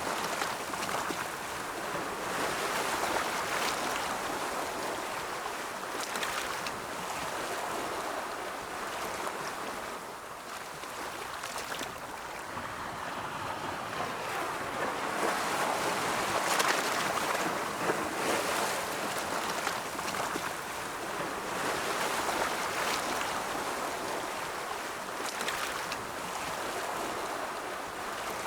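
Ocean surf: waves rolling in and breaking in a continuous wash that swells and eases, loudest about halfway through, with brief hissing splashes of foam.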